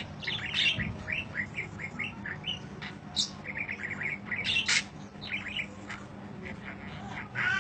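Budgerigar warbling: a long, busy run of quick chirps and chatter, with a couple of sharper, higher squawks near the middle.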